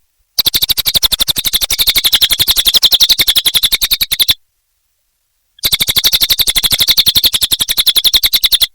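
Cililin bird singing a rapid, even trill of sharp notes, about ten a second, in two bursts of about four seconds each with a silent gap between.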